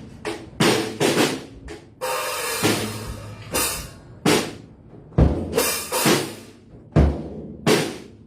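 Drum kit played by hand in a loose, uneven rhythm of snare and tom hits with bass drum. A cymbal crash about two seconds in rings for about a second, and deep bass drum kicks come near the end.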